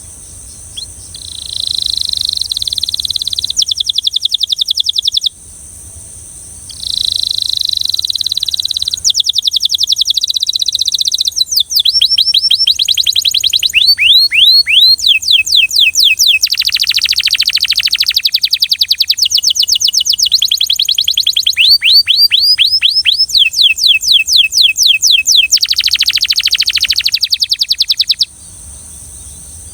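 Belgian canary singing: a first phrase of about four seconds, a short pause, then a long run of fast rolls and trills made of rapidly repeated notes, each sweeping downward, which stops shortly before the end.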